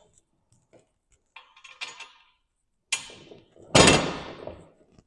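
Metal parts and tools being handled: some light rattling, a sharp knock, then a loud metallic clank about four seconds in that rings briefly and fades.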